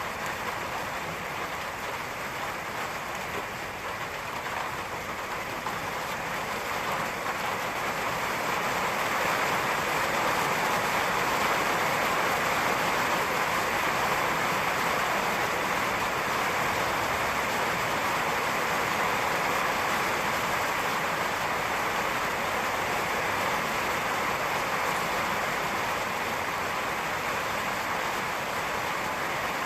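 Steady rain falling, growing heavier from about six to ten seconds in and then holding steady.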